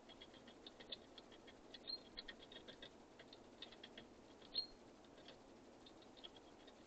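Small birds pecking and shuffling at a feeder, making irregular light ticking and tapping. Two short, high chip notes stand out, the louder one about four and a half seconds in.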